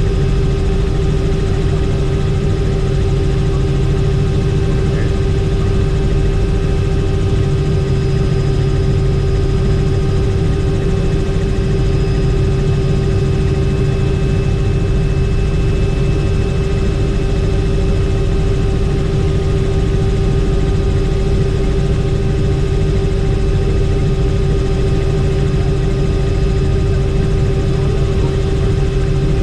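Helicopter in flight: the engine and rotor run at a steady, unchanging drone, with a constant hum over a low rumble.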